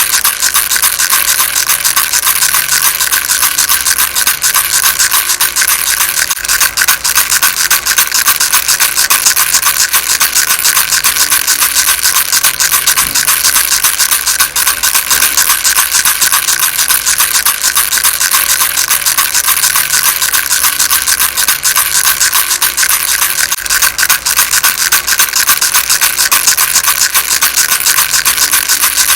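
Baby rattle shaken without pause: a dense, fast rattling that stays steady and loud.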